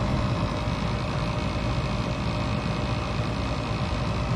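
Goodman gas furnace's motor running with a steady hum as the furnace begins its start-up cycle ahead of ignition, after a reset of the control board.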